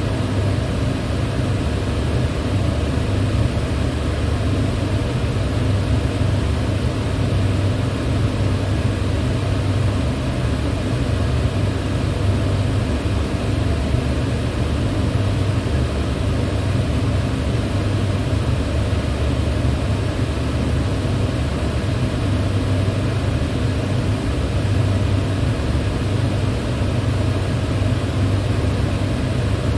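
Electric fan running steadily: an even rush of air over a low hum, with no change in speed or level.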